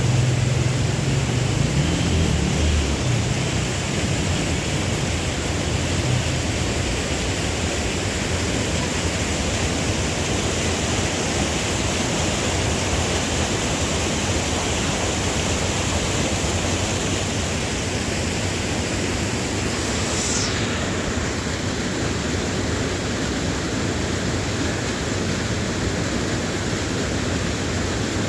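Waterfall's rushing water, a steady even noise with no change in level.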